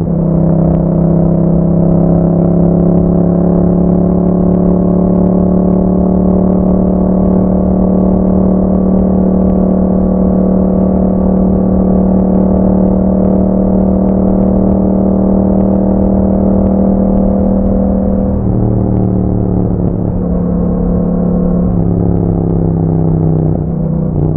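2021 Yamaha MT-07's 689 cc parallel-twin engine running through an Akrapovic exhaust, held at steady revs while cruising. In the last several seconds the engine note drops and changes pitch a few times as the revs come down.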